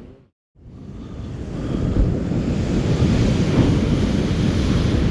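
Surf washing on the beach with wind buffeting the microphone. The sound drops out for a moment near the start, then fades back up and runs on steadily.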